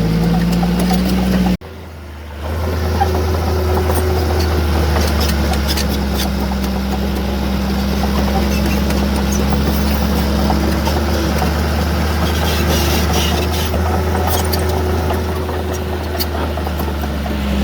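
Heavy diesel earthmoving machinery running steadily with a low engine drone. The sound drops out abruptly about a second and a half in, then the engine drone picks up again, with scattered light clanks later on.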